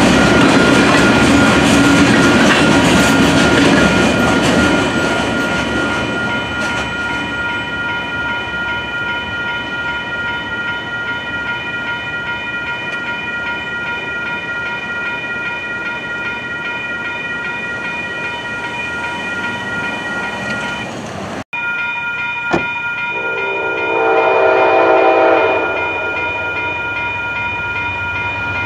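Freight cars rolling through a grade crossing, fading away within the first few seconds, while the crossing's electronic warning bell rings steadily. After a cut, a crossing bell rings again, and an approaching locomotive sounds its horn briefly about three-quarters of the way in and again at the very end.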